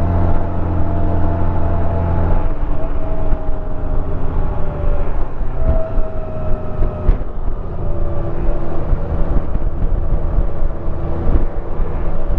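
Honda Gold Wing Tour's flat-six engine running at road speed, its pitch drifting gently down and up, under a steady rush of wind and road noise.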